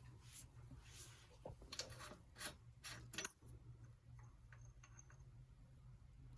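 Faint handling noises from bike repair work: a quick run of light clicks and scrapes of metal tools and parts in the first half, then a few softer ticks, over a low steady hum.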